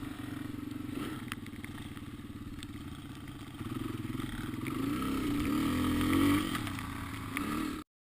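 Dirt bike engine running, growing louder and revving higher from about halfway through, with a few sharp clicks and clatter; the sound cuts off abruptly near the end.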